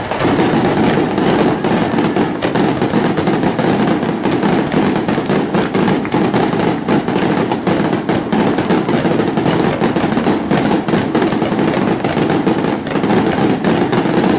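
Fireworks crackling: a dense, continuous rattle of many rapid overlapping pops.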